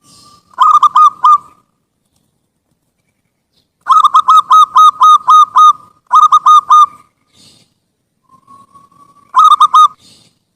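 Zebra dove (perkutut) cooing in its staccato song: four loud runs of quick, evenly spaced coos, the longest about two seconds in the middle, with short pauses between runs.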